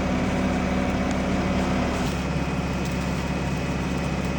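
JLG telehandler's diesel engine running steadily.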